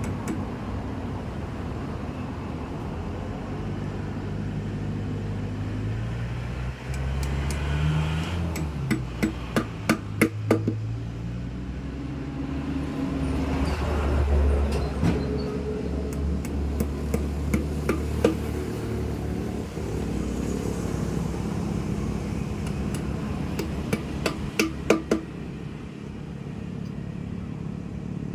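An engine running steadily with a low hum that briefly rises in pitch about eight seconds in. Over it come several bursts of quick, sharp knocks during tyre work on a dump truck.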